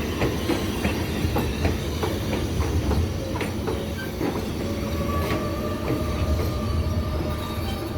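R188 subway train running on the Flushing Line, its wheels clicking repeatedly over rail joints above a steady low rumble. About halfway through, a steady whine with two pitches sets in.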